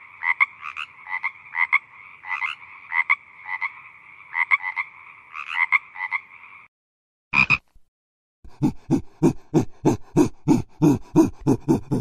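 Green tree frogs calling: a steady chorus with repeated louder croaks every half second or so, which stops about two-thirds of the way through. After one short call, a faster, lower pulsing call of about four pulses a second starts and carries on to the end.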